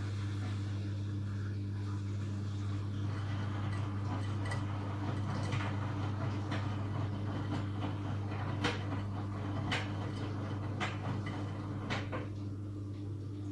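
Miele W Classic front-loading washing machine running a wash with a steady hum. From about five seconds in there are sharp knocks roughly once a second, typical of laundry dropping as the drum turns.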